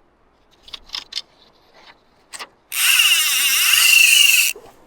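Fly reel's drag screaming as a hooked steelhead runs and strips line off it: a few short ratcheting spurts, then about three seconds in a loud, steady, high-pitched buzz that lasts nearly two seconds and cuts off near the end.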